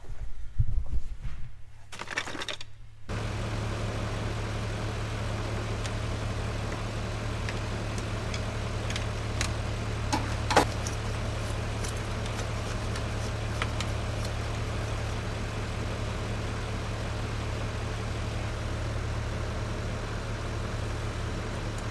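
A pickup truck's engine starts about three seconds in and then idles steadily, with a few sharp clicks around the middle, the loudest about ten seconds in.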